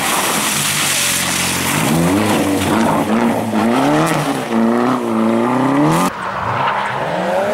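Rally car engine revved hard at full throttle, its pitch climbing and dropping again and again as it goes up through the gears. About six seconds in the sound cuts abruptly to another rally car accelerating, its pitch rising.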